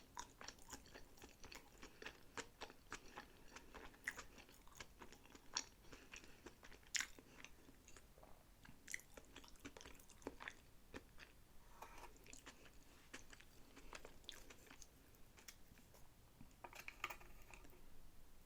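Chewing and biting into sushi rolls, a quiet run of irregular wet mouth clicks and smacks with a few sharper crunchy bites, the sharpest about seven seconds in.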